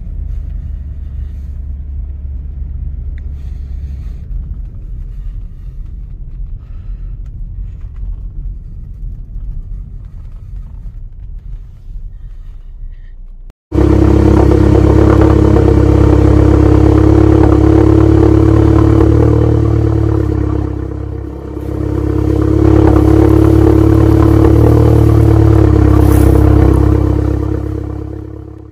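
Low engine and road rumble inside the cabin of a Hyundai Verna 1.6 CRDi diesel while driving. About 14 s in it cuts to a much louder, steady car engine sound that dips briefly about 21 s in and fades out near the end.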